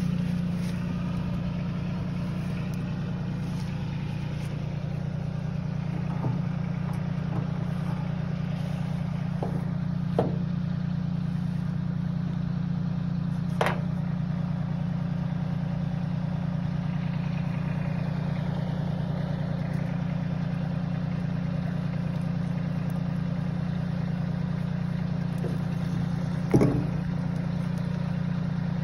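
Tractor's diesel engine running steadily at idle, with a few short sharp knocks, the loudest near the end.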